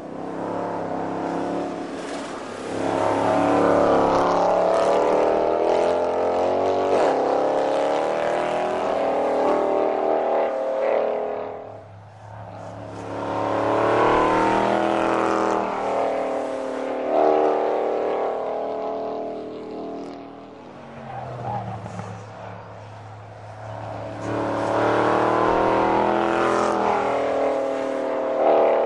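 Mercedes-Benz SL63 AMG's 6.2-litre V8 revving hard at speed, its note climbing through long pulls. The note fades twice between pulls and then picks up again.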